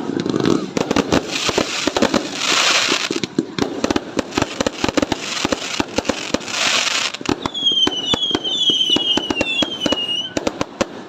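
Fireworks going off: rapid bangs and crackles throughout, with two hissing bursts, and a run of short falling whistles near the end.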